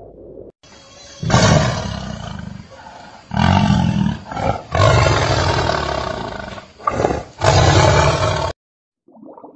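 Lion roaring: a series of deep roars starting about a second in, about four long ones with short grunts between, cutting off abruptly near the end.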